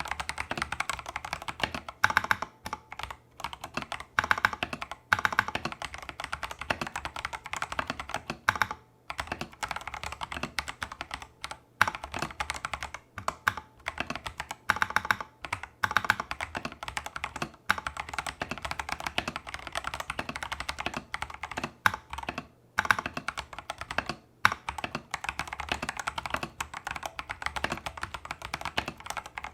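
Steady, fast typing on a Tester68 custom mechanical keyboard with factory-lubed AliExpress clone Holy Panda tactile switches and XDA-profile keycaps. The key clacks come in quick runs, with a couple of brief pauses and a few louder strokes.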